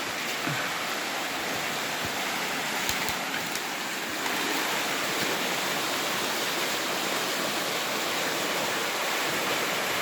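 Steady rush of flowing water, a little louder from about four seconds in.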